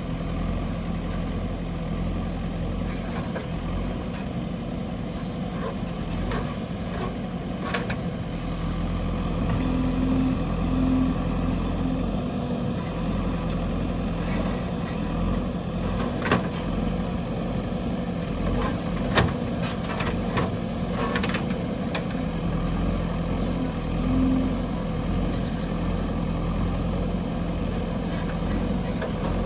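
JCB 3DX backhoe loader's diesel engine running steadily, with a few sharp knocks over it, the loudest about nineteen seconds in.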